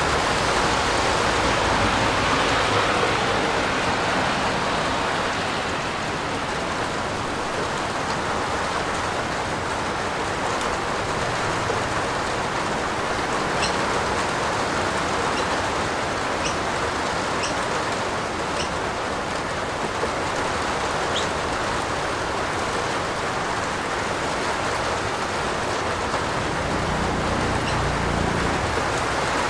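Steady heavy rain falling on a roof, an even hiss. A few faint high chirps in the middle, and a low rumble near the end.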